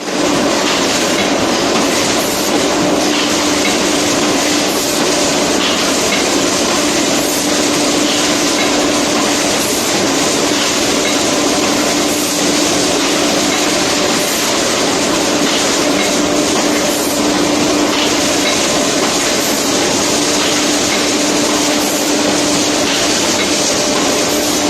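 Automatic aluminium foil container making machine running: a steady mechanical hum and hiss with a faint regular stroke about every two and a half seconds.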